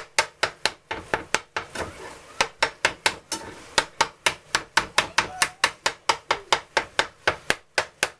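A cooking utensil striking a pan rapidly and evenly, about five knocks a second, chopping ground turkey into fine crumbles as it cooks.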